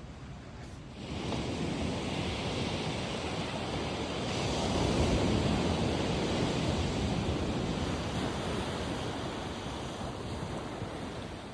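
Ocean surf: a wave breaking and washing in, swelling to its loudest about five seconds in and then slowly easing off.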